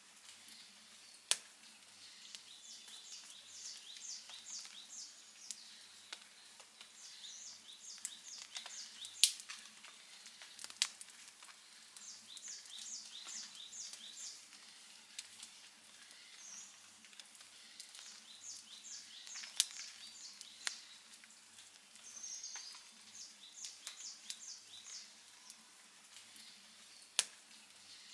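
Outdoor wood campfire crackling softly, with about five sharp pops standing out. Over it, high chirping comes in short trains of quick pulses, repeating every few seconds.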